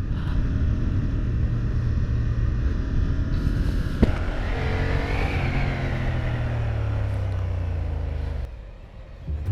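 Honda Hornet 1000 motorcycle engine running steadily, with a sharp click about four seconds in; the sound drops away suddenly near the end.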